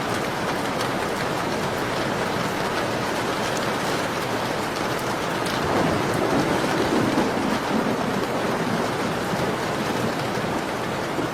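Steady rain, with small crackling ticks from a fireplace mixed in. About six seconds in, a louder, deeper swell rises for a couple of seconds, then settles back.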